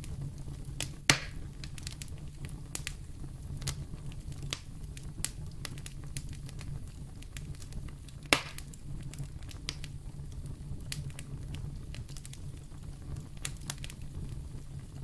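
Wood fire burning in a fireplace: a steady low rumble with scattered crackles and two loud pops, about a second in and just past eight seconds.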